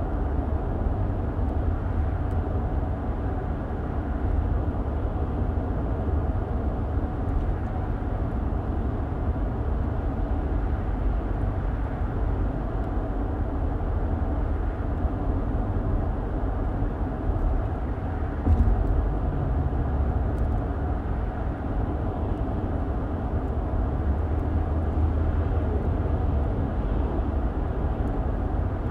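Steady low rumble of a car driving, road and tyre noise with the engine, heard from inside the cabin. There is one brief louder bump about two-thirds of the way through.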